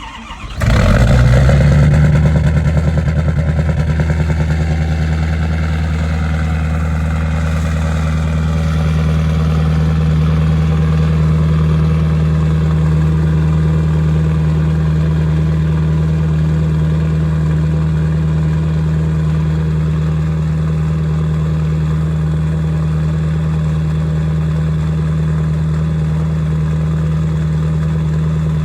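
Ford 6.7 Powerstroke V8 turbo-diesel, fitted with a stage 4 KC turbo, cold-starting at −24 °F without its block heater plugged in: it catches just after the start, runs loudest with a fast pulsing for the first few seconds, then settles into a steady cold idle.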